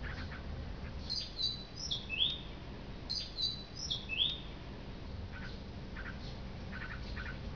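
A bird singing the same short phrase twice: a quick cluster of high notes that ends in a lower, downward-curving note. Fainter, lower chirps repeat every second or so, over low background noise.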